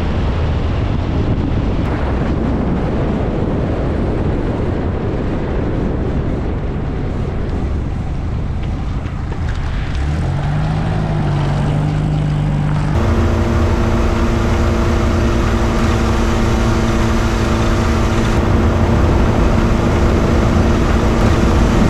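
Austin-Healey 100's four-cylinder engine running at a steady cruise, with wind and road noise rushing past the open roadster. A little past halfway the engine note turns into clear, steady tones.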